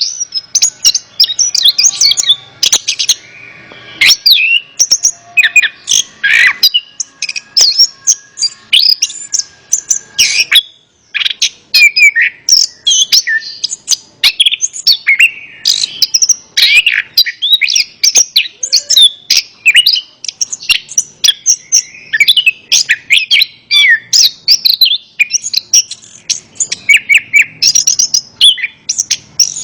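Chestnut-capped thrush (anis kembang) singing: a rapid, unbroken stream of short, varied high chirps and whistles, with a brief break about eleven seconds in.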